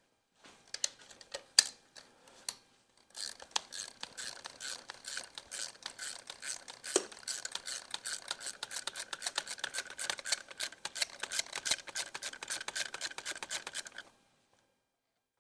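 Ratchet wrench clicking: a few loose clicks, then a fast, even run of ratcheting for about eleven seconds as a bolt is backed out, cutting off suddenly near the end.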